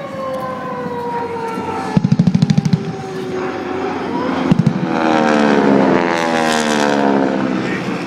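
Propeller-driven warbird aircraft flying past low, engine tone falling in pitch as it passes and swelling to its loudest near the middle, with a short rattle of rapid pops about two seconds in.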